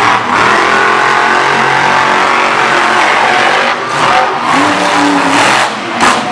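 Monster truck engines at full throttle in a heads-up race, revving loudly with the pitch rising and falling.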